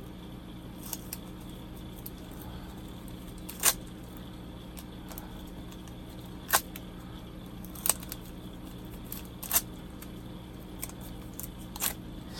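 Sellotape and a plastic model kit being handled while old decals are lifted off with the tape: a few sharp clicks and ticks, spaced a second or more apart, over a steady low hum.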